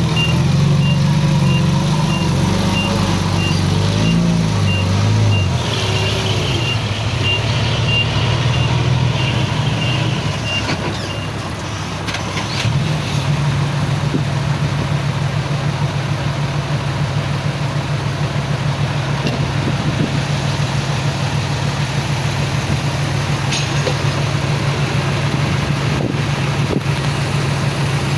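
A heavy diesel engine runs with a reversing beeper sounding a steady string of high beeps. The beeping stops about a third of the way in. The engine wavers in pitch early on, then settles into a steady run for the rest.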